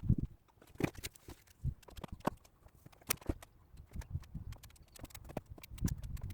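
An irregular series of light knocks and taps from hand tools during bodywork on a car panel, some with a dull low thump.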